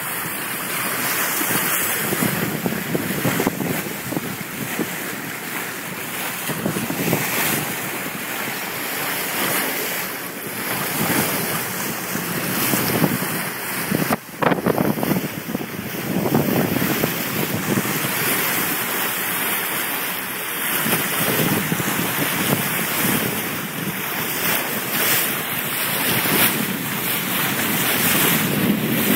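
Wind buffeting the microphone over the rush of water along a sailboat's hull under sail, swelling and easing with the gusts. There is a brief break in the sound about fourteen seconds in.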